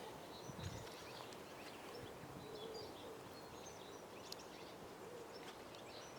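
Faint birds chirping at scattered moments over a steady background hiss.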